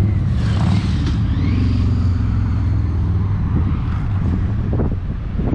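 A car engine idling close by, a deep steady note.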